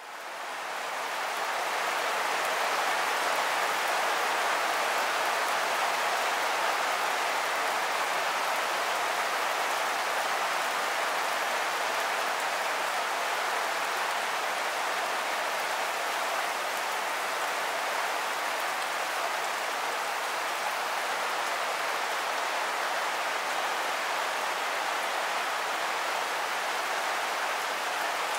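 Steady rain falling, an even hiss of many drops that fades in over the first couple of seconds and then holds level.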